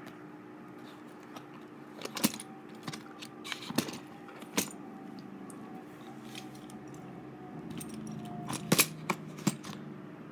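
Small die-cast metal toy cars clinking and clicking against each other and hard surfaces as they are handled, with scattered sharp knocks that bunch up near the middle and again near the end, over a faint steady hum.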